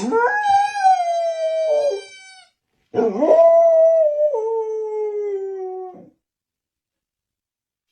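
A dog howling: two long howls about a second apart, each sliding and stepping down in pitch toward its end.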